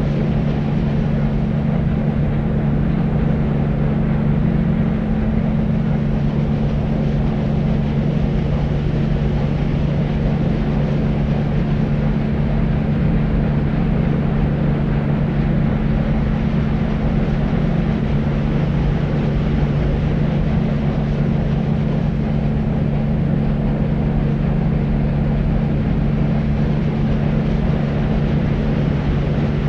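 Steady deep white noise for sleep: an even, low, rumbling hiss with a steady low hum running through it, unchanging throughout.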